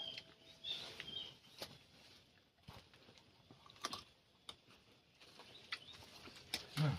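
Scattered crisp clicks and crunches of eating by mouth and handling food, with a few short high bird chirps in the first second or so.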